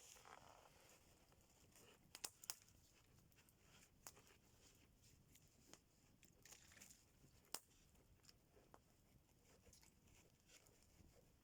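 Faint campfire crackling: scattered sharp pops and clicks, a few louder ones about two seconds in and again past seven seconds.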